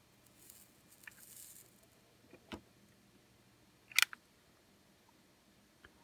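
Soldering a wire into a crimp terminal with a soldering gun: a faint sizzle of flux and solder in the first second and a half, then a few sharp clicks of metal handling, the loudest a quick double click about four seconds in.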